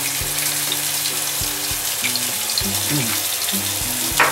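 Broccoli and shirasu sauce sizzling steadily in oil in a saucepan on a gas stove, with a sharp click about four seconds in. Light background music plays underneath.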